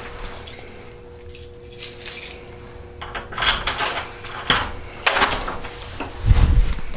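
Keys jangling and clicking, as at a door lock, with a heavy low thump about six seconds in, such as a door being pushed open.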